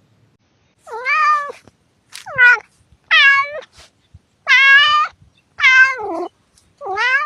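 A domestic cat meowing six times in a row, each meow under a second long and about a second apart.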